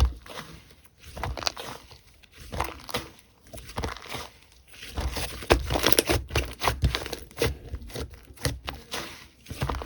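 Slime being squished and kneaded by hand, giving a dense run of irregular crackling and popping clicks that grow busier about halfway through.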